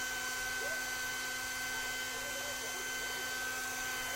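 Hand-held hair dryer running steadily: an even rush of blown air with a steady motor whine.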